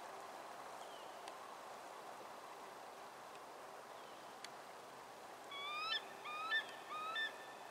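A bird calls three times near the end, each call a short rising piping note, about half a second apart. Faint outdoor hiss with a few small high chirps comes before the calls.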